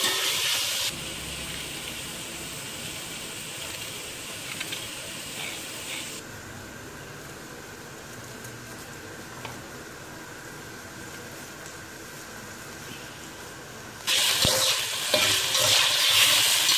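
Chicken pieces sizzling as they fry in a little oil in a steel pan, with a spoon stirring them. The sizzle drops away about a second in to a much quieter stretch with a few faint clicks, then comes back loud about 14 seconds in.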